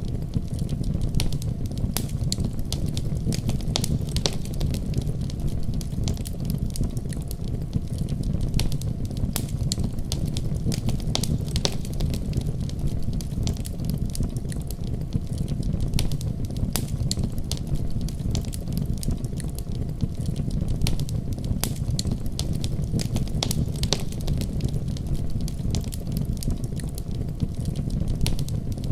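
Wood fire crackling in a fireplace, with frequent sharp pops. Underneath is the steady deep rumble of a heavy snowstorm.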